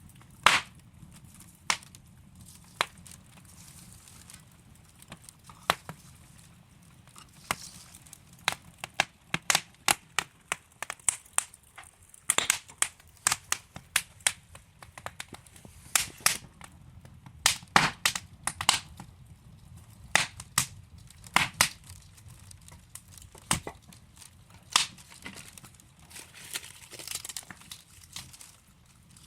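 Wood fire crackling in a fireplace: irregular sharp pops and snaps from burning logs over a faint low rush of flame. The pops come in loose clusters, busiest in the middle and again near the end.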